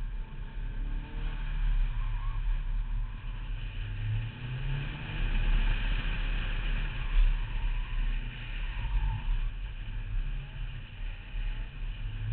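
Car engine revving up and down under changing throttle, with road and wind noise, as the car is driven hard through an autocross course of cones. The engine note and loudness keep rising and falling.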